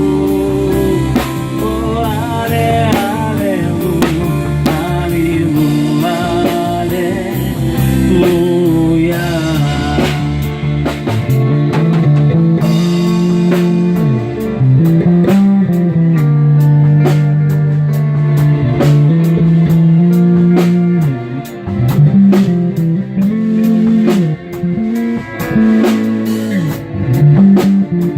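Worship band playing an instrumental passage: guitar over drum kit, with a low bass line moving underneath.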